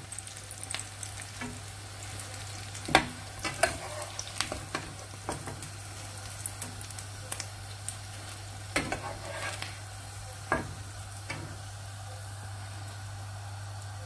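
Potato patties shallow-frying in oil in a nonstick pan, with a steady sizzle. A metal spatula scrapes and knocks against the pan several times as the patties are lifted out, the loudest knock about three seconds in.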